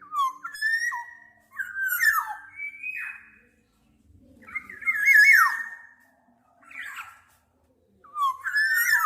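Black-naped oriole singing: about five fluting, whistled phrases that glide and warble, separated by short pauses, with a shorter, rougher call about seven seconds in.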